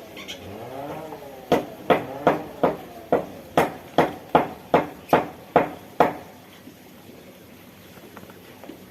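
A run of about a dozen sharp knocks, evenly spaced at roughly three a second, like hammering, then they stop about six seconds in. Just before the knocks, a short pitched sound rises and falls.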